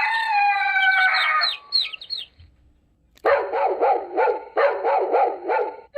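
Recorded animal sounds from a children's sound book: a rooster crowing with chicks peeping over it, then, after a short pause, a dog barking over and over in quick succession.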